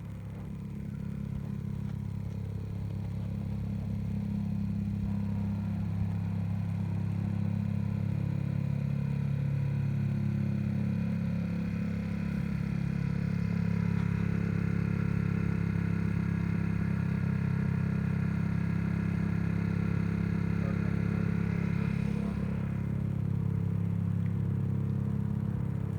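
Motorcycle engine running steadily, its pitch barely changing, growing somewhat louder over the first dozen seconds.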